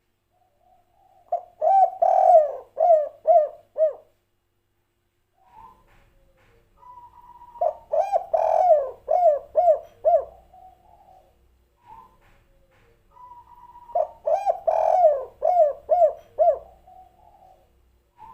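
Spotted dove (tekukur/derkuku) cooing its 'kuk 3' song three times, about six seconds apart. Each song is a quick run of about six cooing notes.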